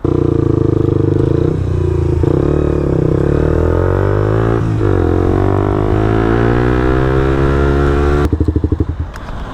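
Suzuki GSX-R125's single-cylinder four-stroke engine pulling under throttle while riding. It dips once around the middle and then climbs steadily in pitch, before the throttle shuts off near the end, leaving a low, pulsing beat.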